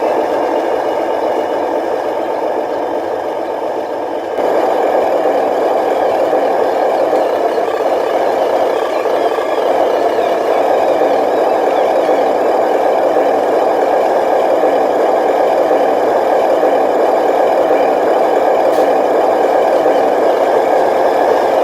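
Small electric motors and gearing of a radio-controlled dump truck running with a steady mechanical whine and rattle. The sound gets louder about four seconds in and then holds steady.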